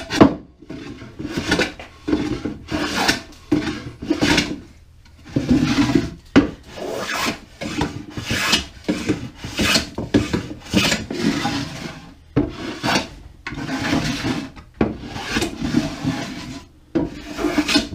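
Jack plane shaving the bottom edge of a wooden beehive body in repeated strokes, about one a second, taking down the high spots to level the box.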